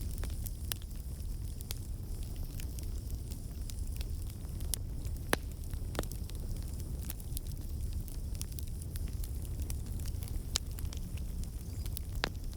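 Campfire burning: a steady low rumble of flames with irregular sharp crackles and pops of burning wood, a few louder pops scattered through.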